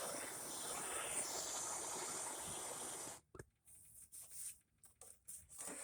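Bernzomatic MAP-gas torch hissing steadily, cutting off suddenly about three seconds in. A few faint short knocks and scrapes follow.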